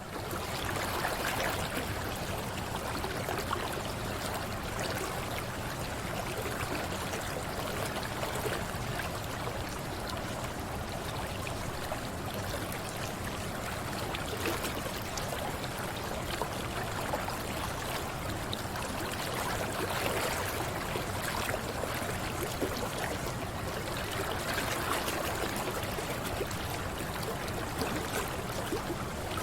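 Mountain river flowing over rocks: a steady rush of running water that fades in at the start.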